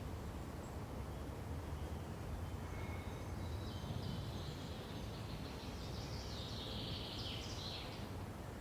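Birdsong over a steady low background rumble: a bird sings a run of high notes from about halfway in, ending in a falling phrase near the end.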